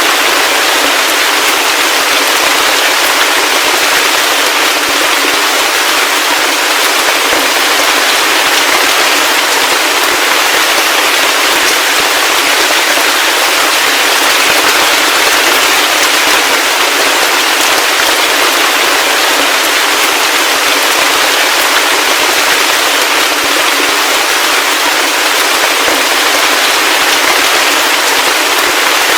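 Heavy rain falling steadily: a dense, even hiss of countless small drop impacts, thin, with no low rumble and no thunder.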